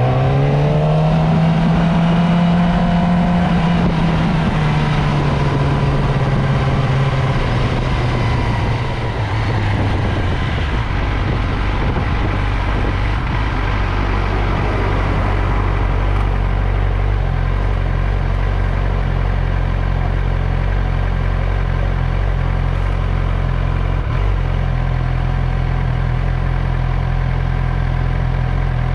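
Motorcycle engine revving up with a rising pitch, then easing off about four seconds in and running steadily at low revs.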